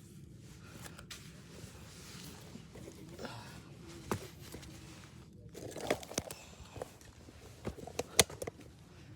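Footsteps of hikers climbing a steep dirt and rock mountain trail: scuffing and shuffling with scattered sharp knocks and scrapes, the loudest near the end.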